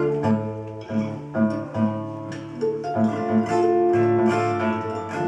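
Acoustic guitar picked, a run of plucked notes ringing over low bass notes.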